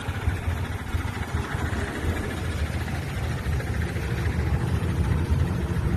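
2015 Nissan Frontier's four-cylinder engine running, a steady low rumble that grows a little louder toward the end.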